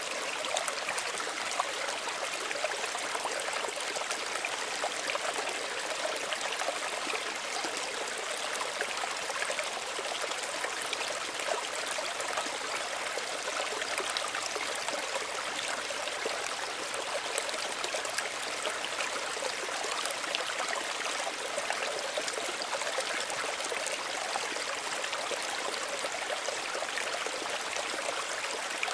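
A small stream running steadily over stones, a continuous bright splashing and trickling with little low rumble.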